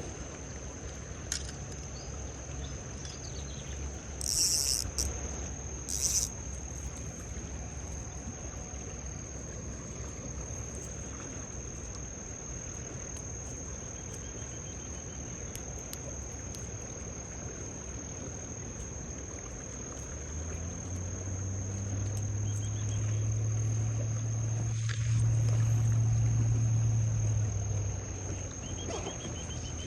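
Insects keep up a steady high-pitched drone. Two short hissing bursts come early on. From about two-thirds of the way through, a low motor hum swells and then fades near the end.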